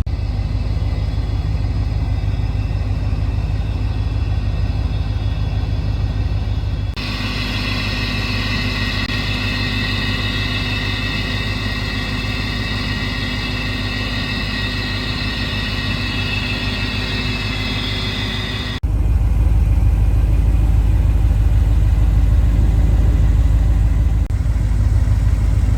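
1983 Pontiac Trans Am's engine running with a steady low rumble, changing abruptly twice. In the middle stretch the rumble drops back and a steady high whine rides over it.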